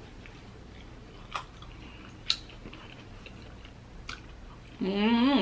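A person chewing crisp battered deep-fried seafood close to the microphone, with three sharp crunches spread through the chewing. Near the end comes a short vocal sound that rises in pitch.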